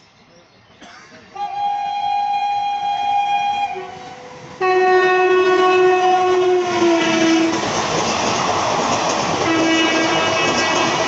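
Electric locomotive sounding its horn as it approaches at speed: one long blast, then after a short break a second long blast on two notes together. About seven seconds in, the train reaches the platform and the coaches rush and rattle past loudly, with one more short horn blast near the end.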